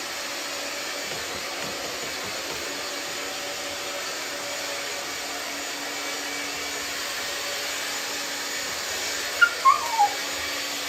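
Dryer blowing a steady stream of air over a dog's wet coat. Near the end, three short falling squeaks cut in above it.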